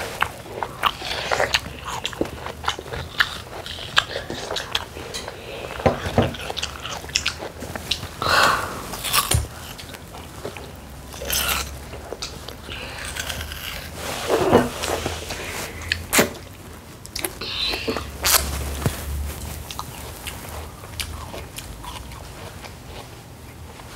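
Two children biting and chewing watermelon close to a clip-on microphone: irregular crunches and mouth noises as they eat the flesh down to the rind. These thin out over the last few seconds.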